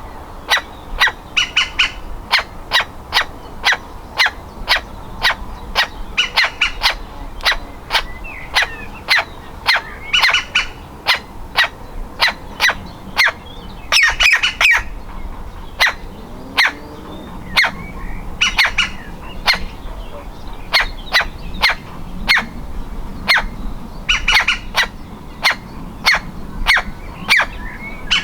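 Woodpecker nestling calling over and over from its nest hole: short sharp calls about two to three a second, with a quick cluster of calls every few seconds. This is the begging of a chick close to fledging.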